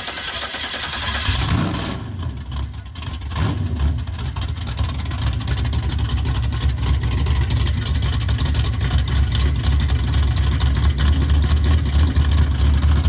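A car engine comes in loud, revs up briefly about a second and a half in, then runs steadily with a dense, even exhaust pulse that grows slightly louder.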